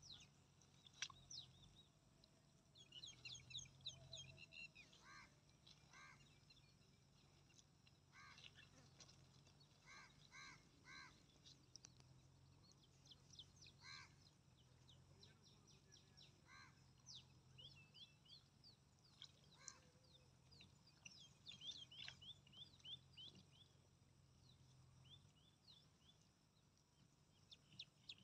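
Faint bird calls: quick runs of high, thin chirps, with short repeated lower calls coming every second or two, over a faint low steady hum.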